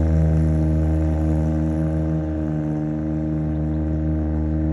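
Motorcycle engine idling at a steady, even pitch.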